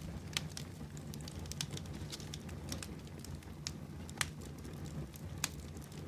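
Fire burning in a fireplace, crackling: a steady low rumble of flames with scattered sharp pops, the loudest a little after four seconds and near five and a half seconds in.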